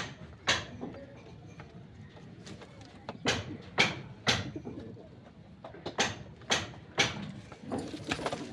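Pigeons cooing faintly, broken by sharp swishing knocks that come in groups of three, about two a second.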